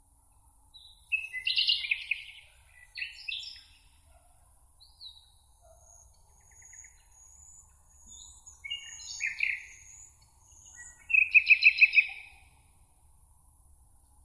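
Songbirds singing in a meadow: short chirping phrases come and go, with thin high whistles between them, and the loudest is a quick trill of about six repeated notes near the end.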